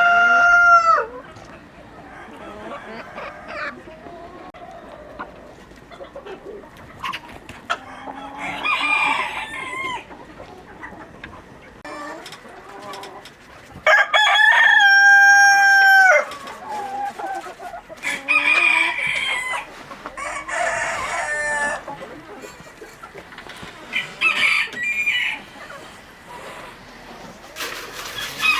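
Roosters crowing: one long crow ends about a second in and another sounds at about 14 seconds, with shorter chicken calls and clucking between them.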